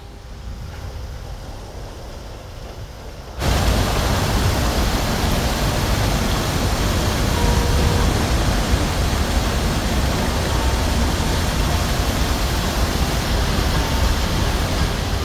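A loud, steady rushing noise that starts abruptly about three seconds in and cuts off abruptly near the end.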